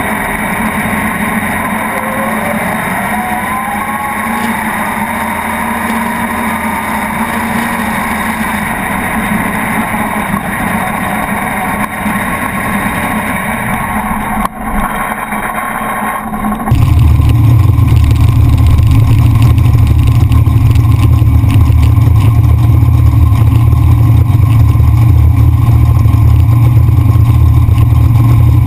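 Naturally aspirated small-block Chevy V8 of a sand-drag jeep running, heard onboard. Its pitch climbs over the first few seconds and then holds. About two-thirds of the way through, the sound switches abruptly to a much louder, deeper, steady rumble close to the microphone.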